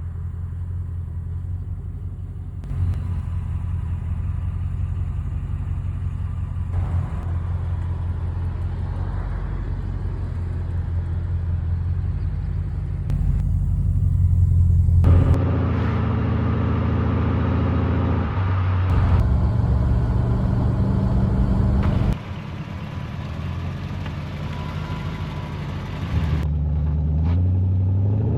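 Mercedes-Benz 560 SEC Koenig Specials V8 engine and exhaust running, mostly at a steady idle. The note changes abruptly several times as clips are cut together, and the engine revs up, rising in pitch, near the end.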